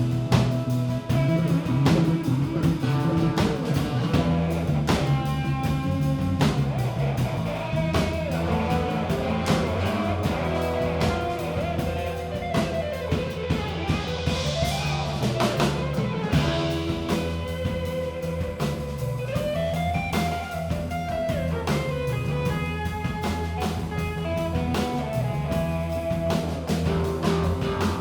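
Band playing an instrumental passage: guitar over a drum kit, the guitar bending notes up and down.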